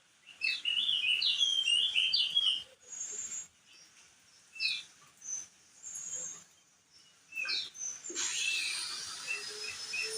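Crested white-eye (opior jambul) singing: a quick run of chirping notes for the first couple of seconds, then single chirps a second or more apart. A steady hiss comes in near the end.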